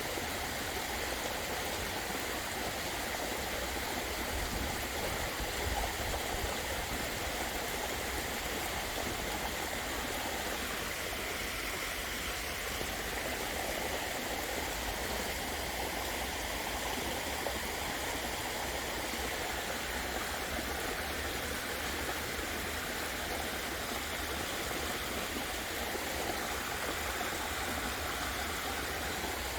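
Water falling and splashing steadily from a garden waterfall, an even, unbroken rush.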